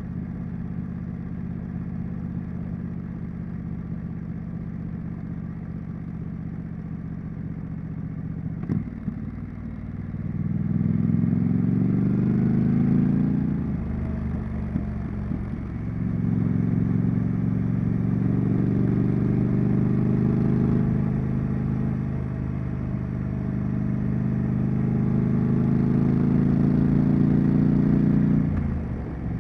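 Triumph Street Scrambler's 900 cc parallel-twin engine heard through its exhaust while riding: a steady note for about eight seconds and a sharp click, then the revs climb and drop back three times as the bike accelerates through the gears.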